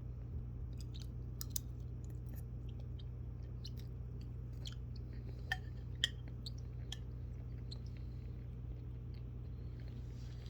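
Food being chewed: a scattered string of small, sharp crunches and clicks over a steady low hum.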